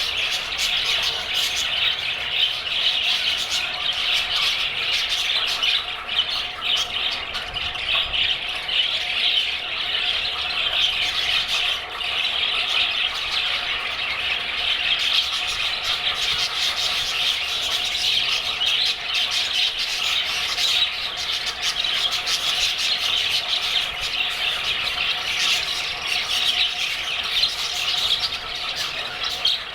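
A flock of budgerigars chattering and squawking without pause, many short high calls overlapping.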